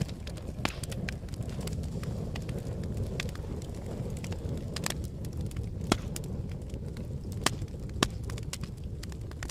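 Campfire burning: a steady low rush of flames with irregular sharp crackles and pops from the wood, two louder pops in the second half.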